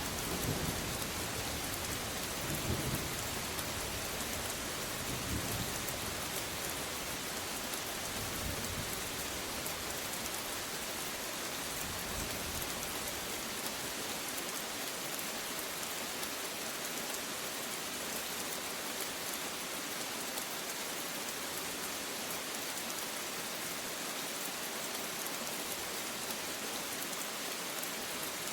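Steady rain falling, with low rolls of thunder rumbling through the first several seconds and fading out, leaving only the rain.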